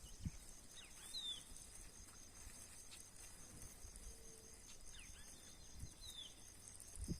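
Faint outdoor ambience: a steady high insect trill with short bird chirps now and then. There is a low thump about a third of a second in and another near the end.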